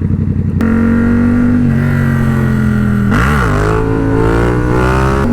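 Sport-motorcycle engine under throttle. Its note holds and sags, drops a step, swoops up and back down about three seconds in, then climbs steadily.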